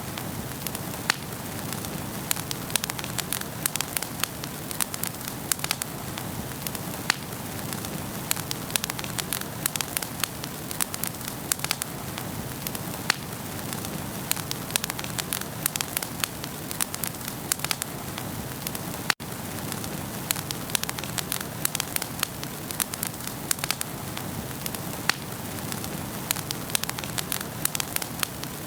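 Wood fire in a fireplace crackling, with dense, irregular sharp pops over a steady low rush of burning. There is a split-second gap in the sound about two-thirds of the way through.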